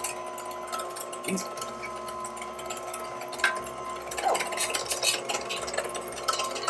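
Amzchef slow masticating juicer's electric motor running steadily with its meat-grinder auger attachment, a steady hum under irregular clicks and crackles, which grow busier about four seconds in, as raw chicken with skin is fed through.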